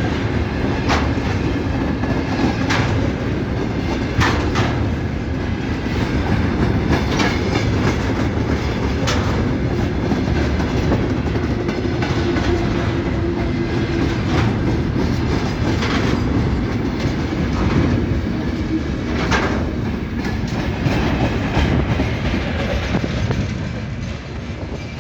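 A train running on the rails: a steady rumble of wheels with sharp clicks at irregular intervals as the wheels cross rail joints. The sound eases off slightly near the end.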